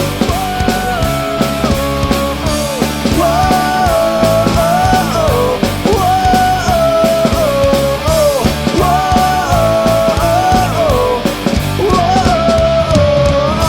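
Rock band recording playing an instrumental passage of a song: a lead melody line that slides between held notes over driving drums and bass. The cymbals drop out about a second before the end.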